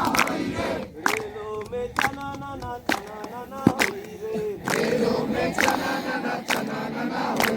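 A group of people singing together in chorus, with a sharp beat about once a second keeping time.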